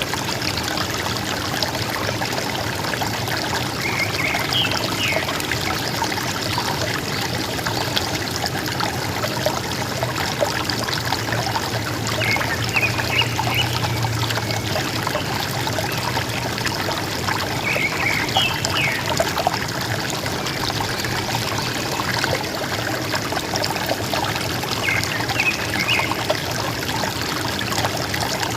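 River water running and gurgling steadily, with a forest bird giving a short call of a few quick notes four times, about every six or seven seconds.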